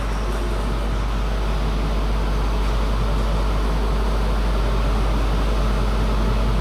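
Steady low hum with an even background hiss, like ventilation or electrical hum, with no ball strikes: a pause between rallies.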